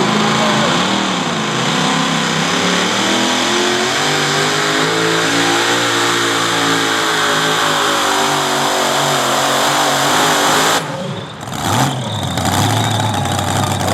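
Pulling truck's engine at high revs under full load as it drags the sled, its pitch climbing steadily. About eleven seconds in the power is cut abruptly, there is a short burst of revs, and then it runs lower and steadier.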